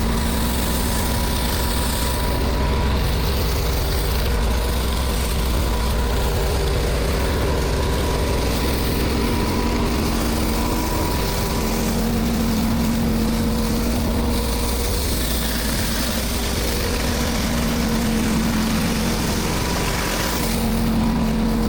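Pressure washer engine running steadily under a continuous hiss.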